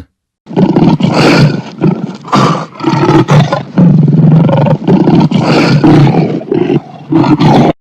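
Lion roaring: a loud run of rough, deep roars with short breaks between them.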